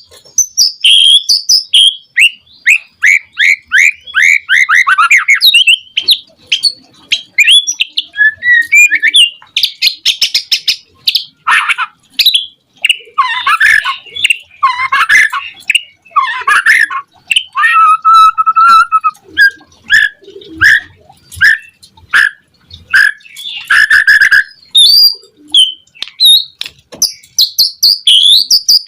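White-rumped shama singing a loud, varied song: a quick series of descending whistled notes, rattling trills and sharp clicks, with a steady held whistle about two-thirds of the way through.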